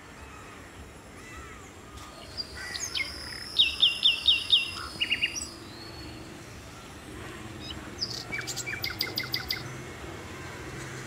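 Small birds chirping: a quick run of about five sharp chirps a few seconds in, a shorter burst of three just after, and another rapid series of chirps later, over a steady low background of open-field ambience.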